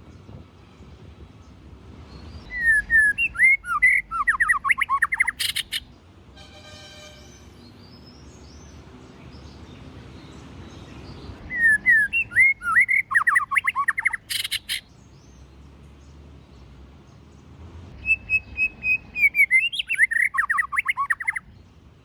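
White-rumped shama singing three rich, rapid, varied song phrases of about three seconds each, with pauses between. The first two phrases end in a sharp click, and a short buzzy note follows the first.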